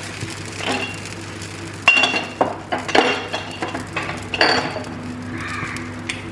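Metal kitchen utensils clinking and knocking against pots and pans, a handful of sharp separate clinks, loudest about two seconds in, over a steady low hum.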